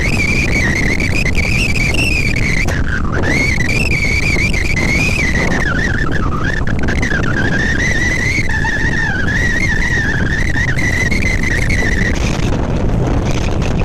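Heavy machinery working in snow: engines running hard under load, with a high, wavering whine or squeal over them that drifts up and down in pitch and stops near the end.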